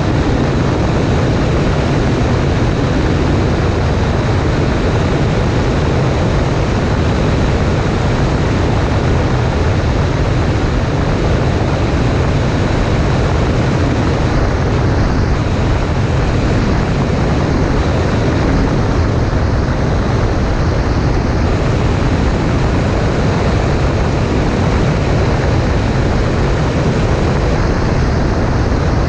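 Cessna 140A light airplane's engine and propeller running steadily, mixed with a constant rush of air.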